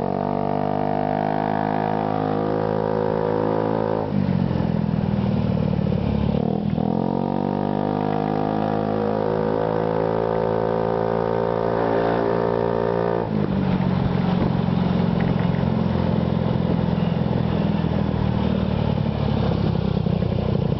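Honda Ruckus 50cc scooter's engine running through a Yoshimura TRC aftermarket exhaust on the road. The exhaust note climbs in pitch twice under throttle, and each time it drops suddenly to a lower, steady drone, about four and thirteen seconds in.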